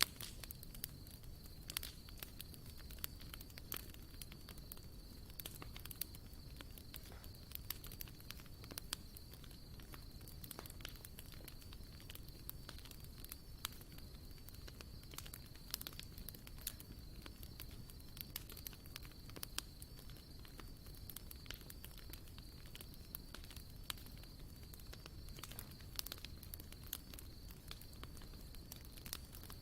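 Wood campfire crackling, with irregular sharp pops and snaps over a low rumble. A faint, steady high-pitched pulsing tone runs beneath it.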